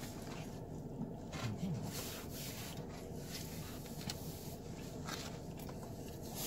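Faint chewing and the rustle of a cardboard sandwich box being handled, with a few soft clicks, over the steady low hum of a car's interior.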